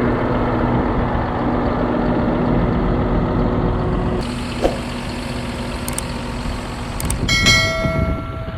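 Tractor engine running steadily, its hum easing down about four seconds in, with a few sharp clicks. A steady high-pitched beep or buzzer tone sounds for just over a second near the end.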